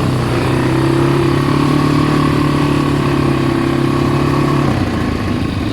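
ATV engine running at a steady pitch while riding, the note easing off near the end.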